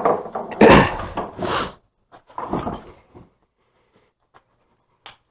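Clattering and scraping of metal car parts being handled, in bursts over the first three seconds, then a single sharp click near the end.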